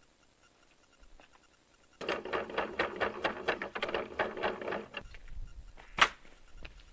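Small hard objects rattling and clattering quickly as they are handled or rummaged through, for about three seconds, then one sharp knock.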